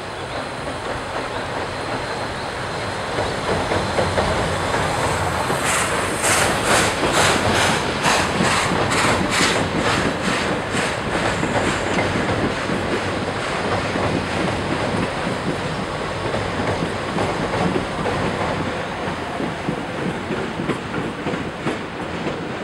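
Train running past with a steady rumble. For several seconds near the middle there is a rapid, even beat of sharp strokes, a little over two a second, which then fades.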